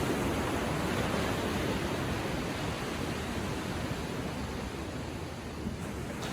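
Gentle ocean waves washing on the shore: a steady hiss of surf that eases off a little in the second half.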